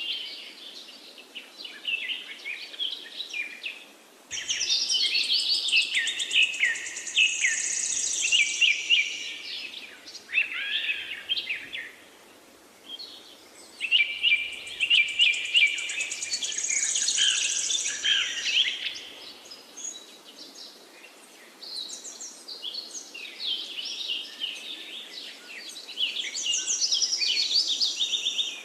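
Birds chirping and trilling in several bursts of rapid calls with short pauses between, over a faint steady hiss.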